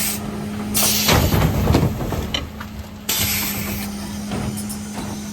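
Mercedes-Benz Econic refuse truck working a bin collection: a steady hum from the truck under bursts of air hiss, with knocking and clatter about a second in.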